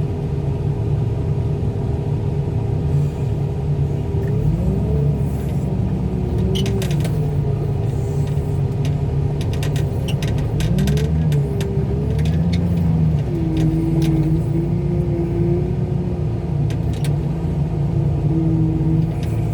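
Car crusher's engine and hydraulic pump running hard under load, their pitch sagging and recovering several times as it presses down a heavy bundle of cars packed with trash. About six seconds in, a run of sharp cracks and pops from the metal and glass giving way lasts for several seconds.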